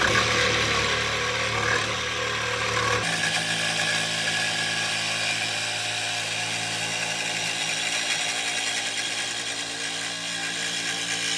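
Power tool cutting through a steel exhaust pipe to cut the muffler off, running steadily with a motor whine. Its sound changes about three seconds in.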